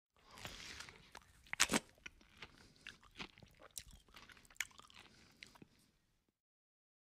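Close-miked chewing of a mouthful of duck curry and rice, wet and crackly, with a couple of loud sharp crunches about a second and a half in; the sound stops about six seconds in.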